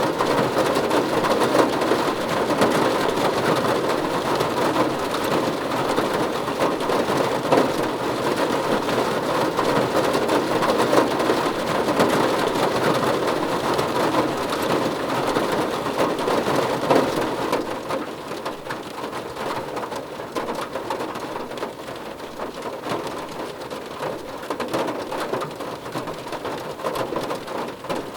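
Rain pattering steadily on a car roof, a dense hiss of many drops. It eases and turns quieter about two-thirds of the way through.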